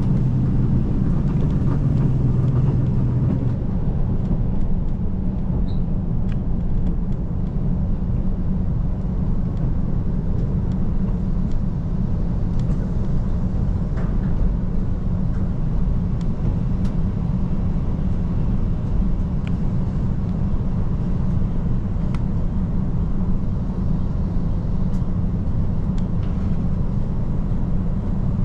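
KiHa 185 series diesel railcar under way: a steady low engine drone and running rumble, the engine tone strongest in the first few seconds, with a few faint clicks.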